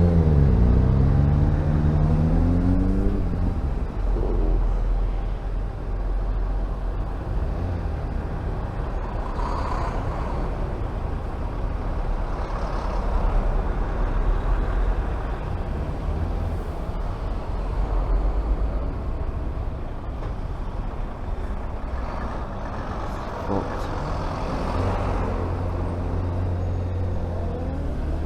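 Honda VFR1200F's V4 engine revving up at the start and again near the end, running steadily at low speed in between, with surrounding road traffic noise.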